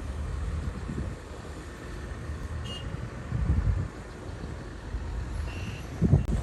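Komatsu bulldozer's diesel engine running, with louder surges about three and a half seconds in and again near the end. A short high beep sounds shortly before the end.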